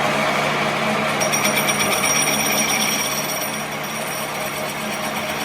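A workshop machine running steadily, with a fast, even rattle setting in about a second in.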